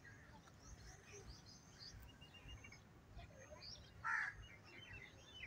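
Faint bird chirps scattered throughout, with one louder, short bird call about four seconds in.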